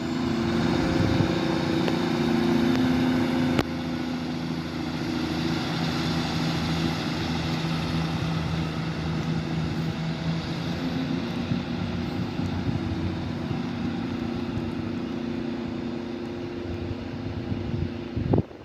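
Class 150 Sprinter diesel multiple unit pulling away from the platform, its underfloor diesel engines running under power with a steady drone. The engine note shifts about ten seconds in, and the sound cuts off abruptly just before the end.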